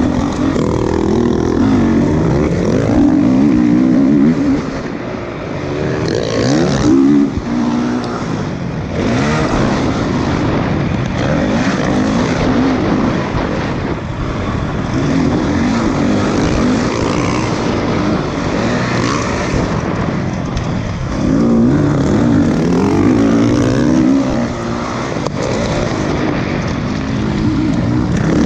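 Motocross motorcycle engines revving, their pitch rising and falling again and again.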